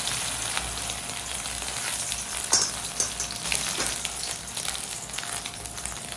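Oil sizzling hard in a wok as food fries, a steady hiss with a few sharp clicks about two and a half to four seconds in.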